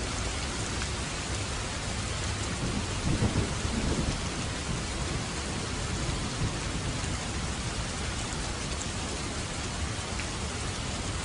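Steady rain falling, with a low rumble of thunder swelling about three seconds in and a fainter one a few seconds later.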